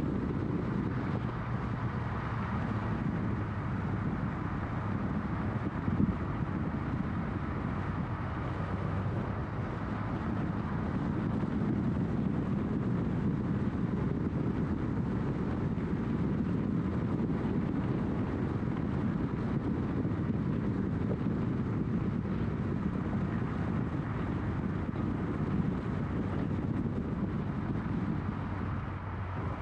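Scion FR-S flat-four engine running at a steady cruise, mixed with wind rush and tyre roar, picked up by a camera on the outside of the car.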